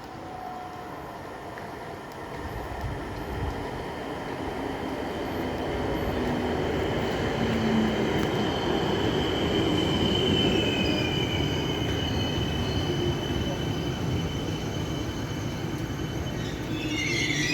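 Train approaching and running past on the rails, growing louder over the first eight seconds, with a high, steady wheel squeal and a second squeal sliding down in pitch through the middle.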